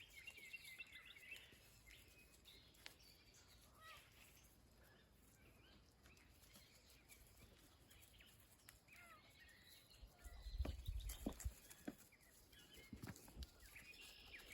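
Quiet outdoor ambience with faint, scattered bird chirps. A brief low rumble with a few thumps comes about ten seconds in.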